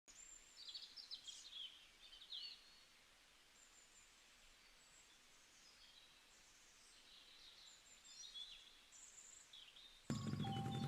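Birds chirping and trilling faintly over a low background hiss, in two spells. Near the end a music track with a steady pulsing beat cuts in suddenly and much louder.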